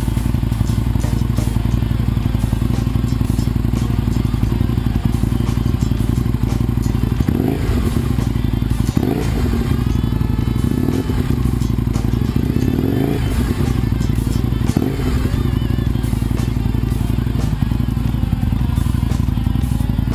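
Aprilia Tuono motorcycle engine idling steadily, with a few quick throttle blips around the middle.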